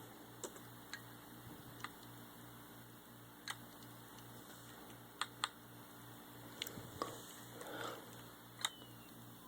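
Lenovo computer making a low hum that pulses evenly, about three times a second, with sharp clicks at irregular intervals.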